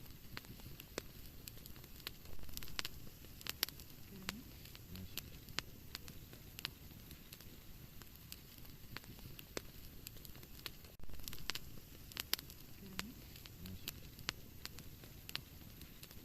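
Wood fire crackling in a fireplace: frequent sharp pops and snaps over a low, steady rumble.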